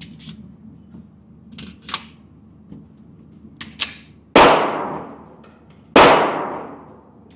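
Two handgun shots about a second and a half apart, each with a long fading echo. A few fainter sharp clicks come before them.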